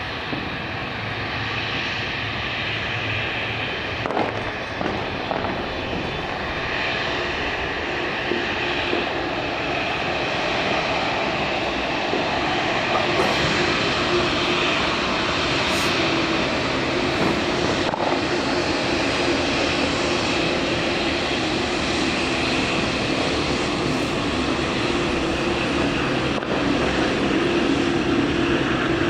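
Boeing 787 Dreamliner's twin jet engines running at taxi power: a steady jet hum with a held tone that grows a little stronger and louder in the second half as the airliner taxis closer.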